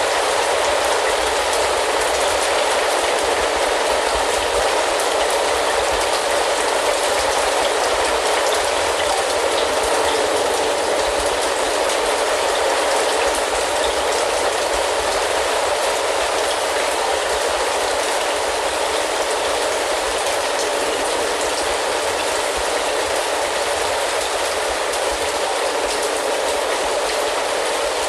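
Steady rain falling, an even, unbroken wash of drops.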